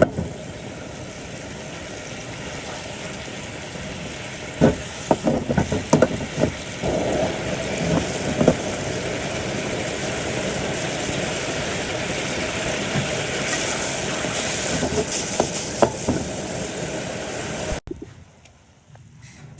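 Food frying in a pan with a steady sizzle, and clatters of a utensil against the pan from about four to nine seconds in. The sizzle cuts off abruptly near the end.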